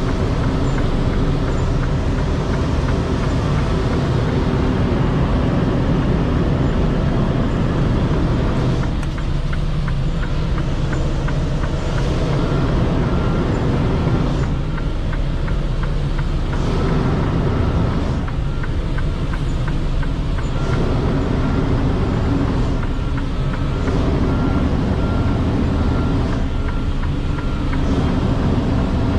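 Semi truck's diesel engine running at low revs while the rig is slowly reversed into a loading dock. A faint, evenly repeated beeping runs through the middle of the stretch.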